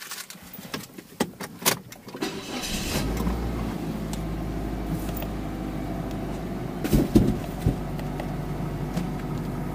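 Mazda car engine starting about two seconds in after a few clicks of the key, then idling steadily. A brief bump about seven seconds in.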